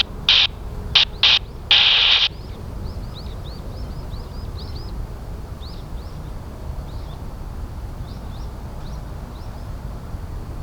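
Several short bursts of radio static from the airband receiver in the first two seconds, the loudest sounds here, then a small bird chirping over and over in short high hooked notes over a steady low outdoor rumble.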